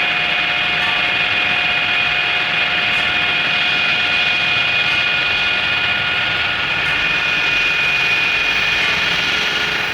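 A workshop machine running steadily with a constant high-pitched whine over a noisy bed.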